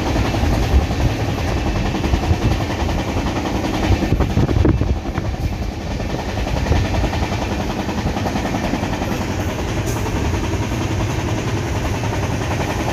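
Passenger train running at speed, heard from inside the coach by the window: a loud, steady rumble and rattle of the wheels on the rails.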